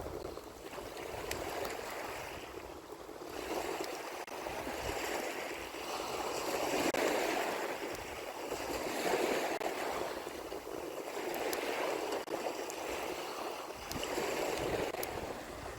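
Small waves washing onto a beach, the wash rising and falling in swells every few seconds.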